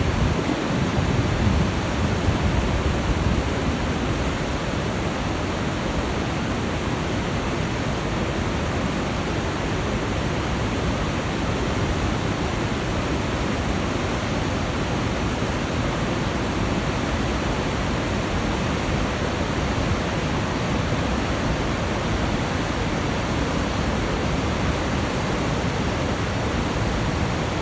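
Murchison Falls, the Nile pouring through a narrow gorge, making a steady, even rushing noise. A louder low rumble sits under it in the first second or two.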